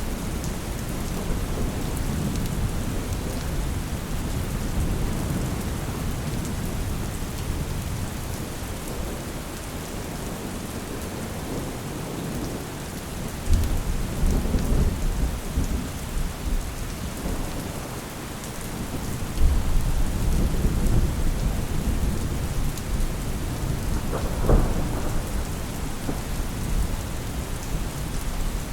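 Steady rain hissing, with rolls of low thunder rumbling in about halfway through and again a few seconds later. A single sharp crack comes near the end.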